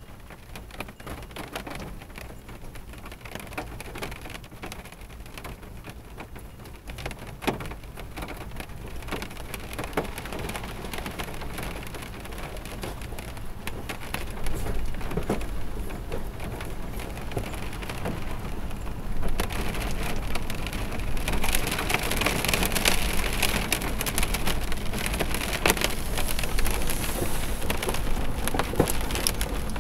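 Rain falling on a car's roof and windshield, heard from inside the cabin: scattered drops tapping at first, building into a heavier, denser rain about two-thirds of the way through.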